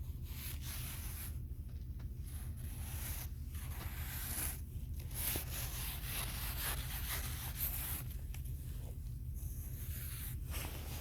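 A series of rough scraping and rubbing strokes, each lasting about a second or more with short pauses between them, over a steady low rumble.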